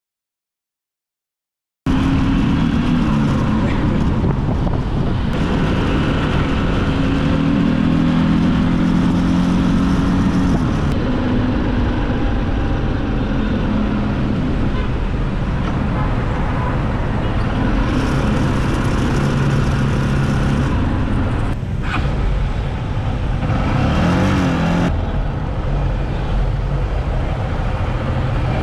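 Silent for about the first two seconds, then a motorcycle engine running under way with steady road and wind noise, the sound changing abruptly several times.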